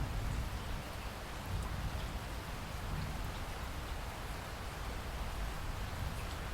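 Steady rainforest rain, an even hiss with scattered drop ticks and a low rumble underneath.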